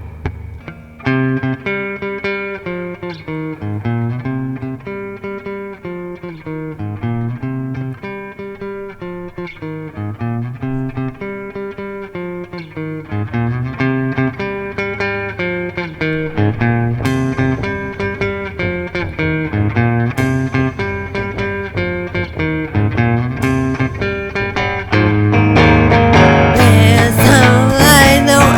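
Guitar intro of a home-recorded grunge demo: a repeating chord pattern, joined by three sharp crashes in the second half, then the full band comes in much louder about 25 seconds in.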